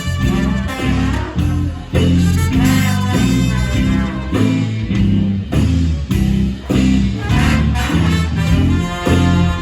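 Live band playing an instrumental passage, with a bass line moving under a lead melody line.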